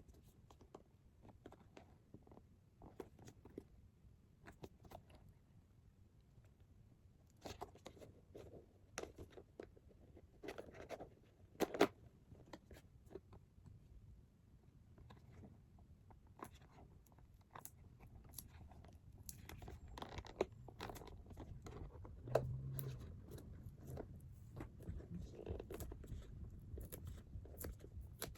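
Toy packaging being handled and opened: irregular crinkling, rustling and tearing with scattered light clicks and taps, and one sharper knock about halfway through.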